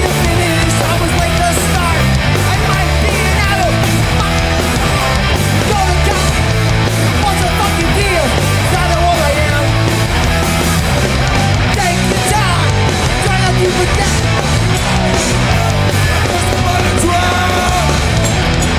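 Hardcore punk band playing live at full volume, with shouted vocals over distorted guitars and drums.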